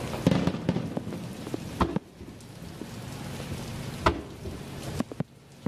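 Aerial fireworks shells bursting over the sea: a dense crackle of many small pops for about two seconds, then a few separate sharp bangs, one about four seconds in and two close together near the end.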